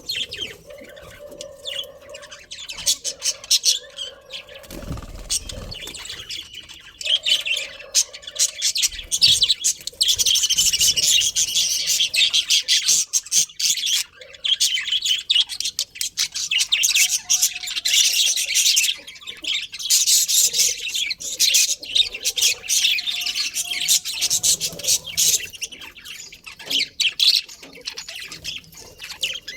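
Budgerigars chattering: a dense, continuous stream of rapid high chirps and squawks, busiest and loudest from about ten seconds in.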